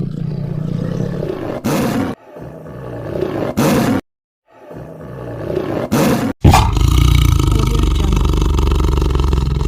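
White tiger growling and roaring in a string of short edited clips with brief gaps. Three short hissing snarls come in the first half, then one long, loud roar past the middle.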